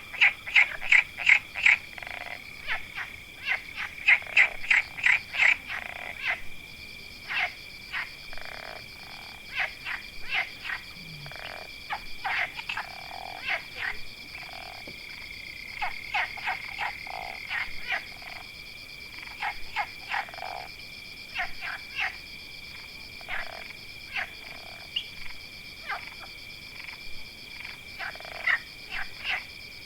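Frogs calling: short repeated croaks that come in quick loud runs of several a second near the start, then scattered single calls, over a steady high-pitched chorus drone.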